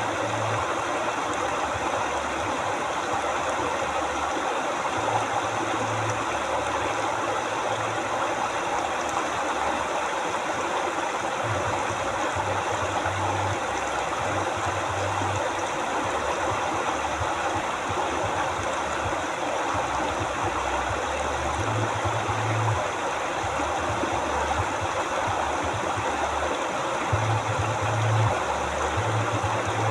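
River water flowing steadily, a continuous rushing sound, with a low rumble that comes and goes underneath.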